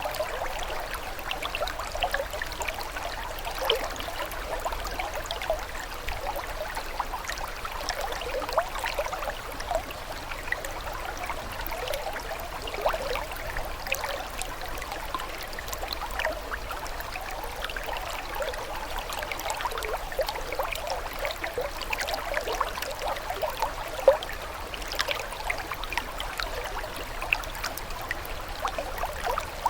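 Running water trickling and gurgling steadily, with many small splashes and one louder splash near the end.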